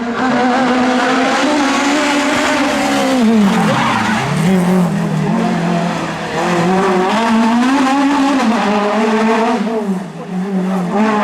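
Renault Clio F2000 rally car engine at full effort, revving up and down through the gears; the revs fall sharply about four seconds in, as for braking into a corner, then climb again, with another short drop near the end.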